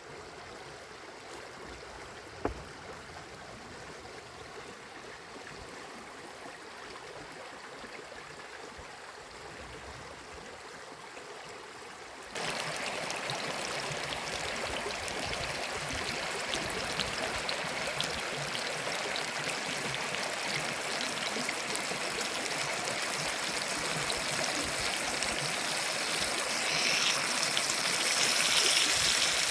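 Salmon steak frying in a pan over a Finnish candle log fire: a steady sizzle and hiss with fine crackles. It is soft at first with a single knock about two seconds in, jumps abruptly louder about twelve seconds in, and grows louder still near the end.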